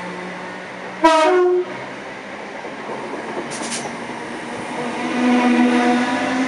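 Class 319 electric multiple unit pulling away, its traction motors whining steadily over wheel-on-rail noise and growing louder and slightly higher near the end. About a second in a short loud train horn blast sounds, followed a couple of seconds later by a brief high hiss.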